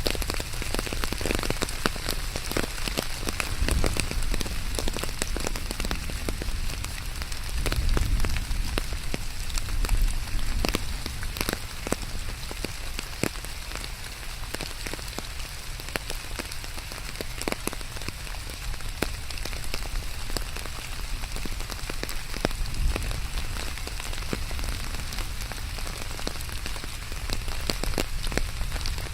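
Steady rain falling, with many distinct drops ticking close by over an even hiss and a low rumble underneath.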